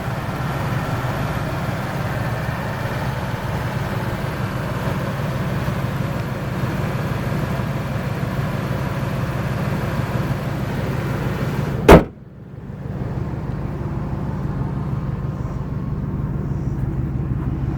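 1998 Ford F150's 4.6-litre V8 idling steadily and quietly. A single loud thump comes about twelve seconds in, after which the engine sounds duller.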